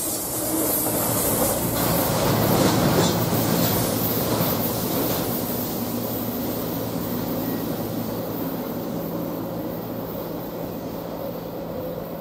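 Freight train of flatcars carrying refrigerated highway trailers rolling past, its wheels clacking over the rails. The rumble fades steadily through the second half as the end of the train moves away.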